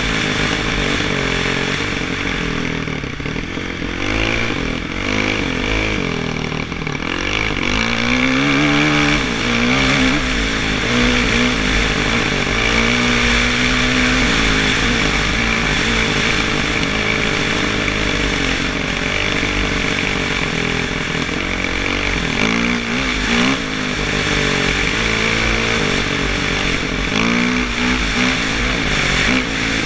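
Kawasaki KX450F motocross bike's four-stroke single-cylinder engine being ridden hard, its pitch repeatedly rising and falling as it revs up and eases off.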